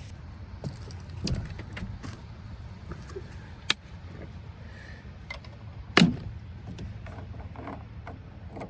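Scattered clicks and knocks of gear being handled around a truck, with a sharp click a little under four seconds in and a louder knock about six seconds in, over a steady low rumble.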